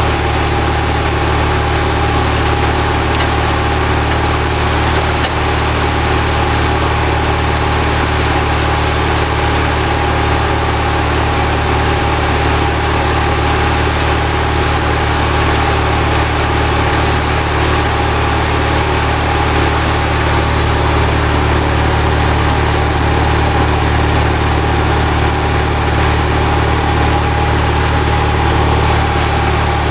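Homemade sawmill built from lawnmower parts, running steadily with an even engine hum and a constant whine.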